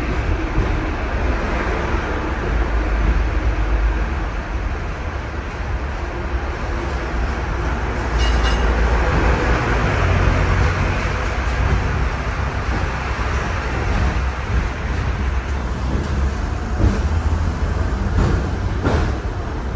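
Steady rumbling ride noise inside the upper deck of a moving double-decker, with a few sharp clicks or knocks, one about eight seconds in and a couple near the end.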